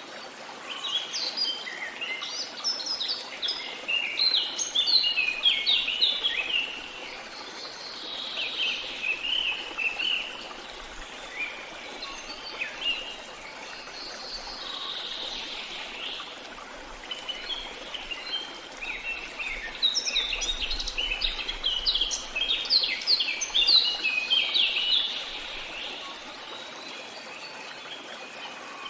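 Birds singing: rapid runs of short, high chirping notes in two busy bouts with scattered calls between, over a faint steady rush of running water.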